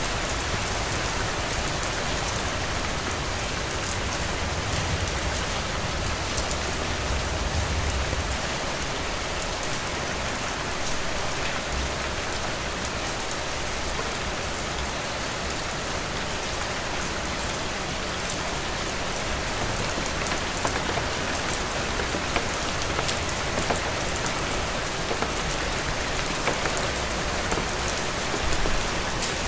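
Heavy rain pouring steadily: a dense, even hiss of falling water with scattered sharper drop ticks. A low rumble swells underneath about five to eight seconds in.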